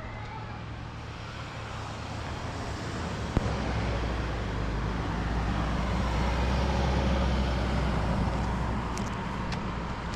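A road vehicle passing, its rumble swelling and then fading, with a short click about a third of the way through.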